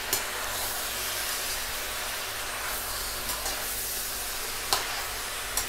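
Raw chicken pieces sizzling in hot oil in a kadai: a steady frying hiss as a slotted steel ladle stirs them, with a light click near the start and another near the end.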